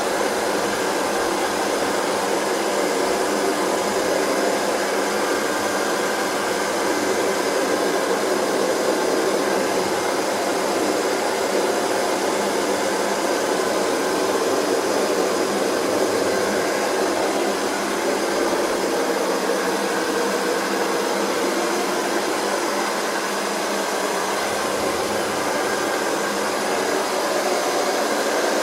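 Hair dryer running continuously, a steady airy rush with a faint motor whine and no change in pitch or level.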